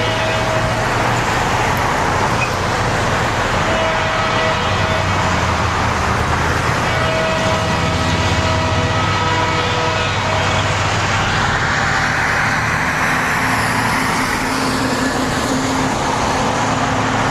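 Steady loud rumble of a diesel locomotive hauling a passenger train, with faint steady tones fading in and out.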